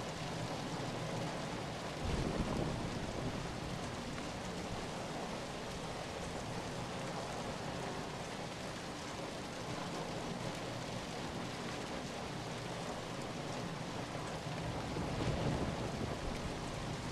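Steady, even rainfall. Two brief low rumbles rise out of it, one about two seconds in and one near the end.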